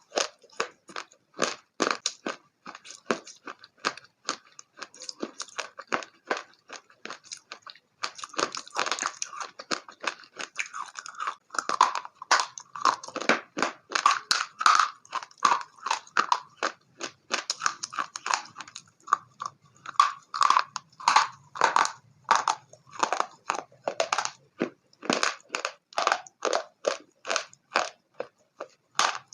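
A person chewing crunchy food close to the microphone, a steady run of crunches about twice a second.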